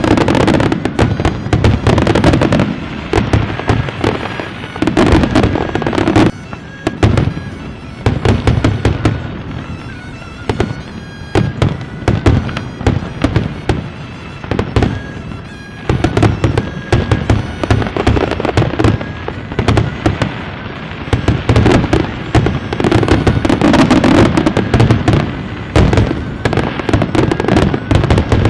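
Fireworks display: a dense, rapid run of bangs and crackling from many shells bursting, with brief lulls about six, ten and fifteen seconds in.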